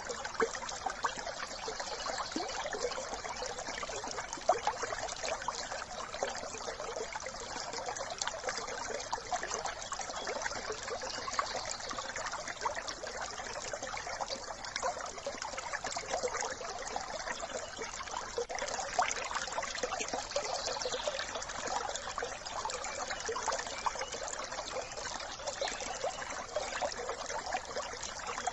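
Small brook trickling and bubbling steadily over stones, a dense patter of tiny splashes.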